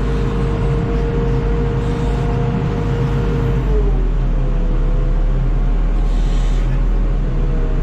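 A vehicle engine running steadily under load, with a whining tone that drops slightly in pitch about four seconds in.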